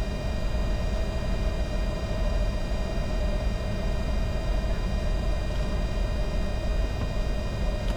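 Steady cockpit noise of a Bombardier Challenger 605 business jet on approach: a constant low rumble of airflow and engines, with a hum and faint steady high tones over it.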